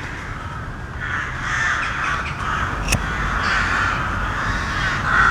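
A flock of crows cawing, many calls overlapping. A single sharp click comes about three seconds in.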